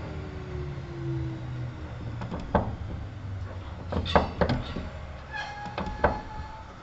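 Kintetsu 1810-series electric train heard from inside the car as it slows for a station: the motor and gear whine falls in pitch over the rumble of the wheels. Several sharp knocks follow, with short brake squeals near the end.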